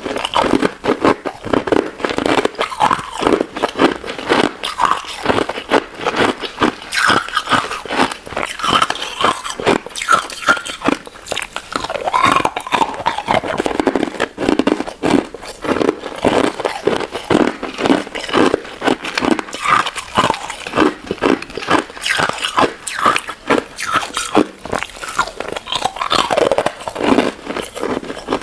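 Close-miked eating sounds: crunching and chewing of crystal ice and citrus jelly, a dense, continuous run of crisp cracks.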